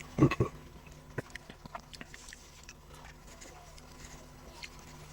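Close-up eating sounds: a person chewing and biting food, with small wet mouth clicks and a louder burst about a quarter second in.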